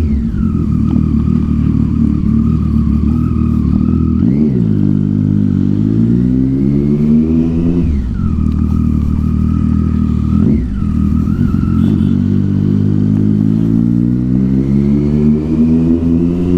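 Triumph Street Triple 675's inline-three engine through a loud Yoshimura exhaust, accelerating under way. The revs climb steadily, dip sharply three times (about four, eight and ten and a half seconds in) and climb again each time.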